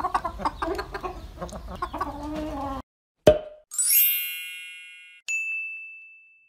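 Cartoon sound effects: chickens clucking for the first three seconds or so. Then a sharp knock as a mallet strikes an egg, followed by a bright chiming ring that fades. A second, single-toned ding comes near the end.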